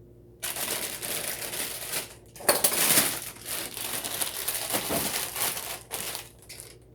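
Dry rolled oats being scooped and poured for measuring, a continuous rustling, pattering rattle that pauses briefly about two seconds in and is loudest just after.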